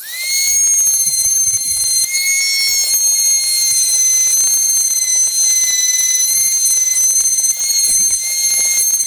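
Dremel-type rotary tool with a thin die-grinding bit, spinning up quickly and then running with a steady high-pitched whine while it grinds metal out of the ports of a cast exhaust manifold.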